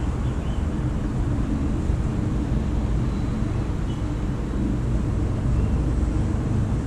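Steady low rumble of distant city traffic, with a few faint, short bird chirps over it.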